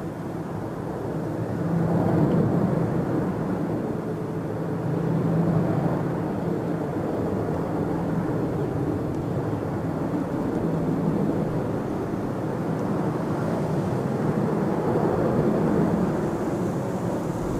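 Jet airliner engines at takeoff power, a steady rumbling roar of noise that swells and eases several times.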